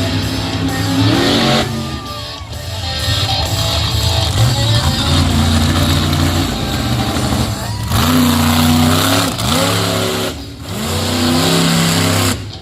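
Monster truck engine revving hard, its pitch repeatedly rising and falling, over loud rock music with electric guitar.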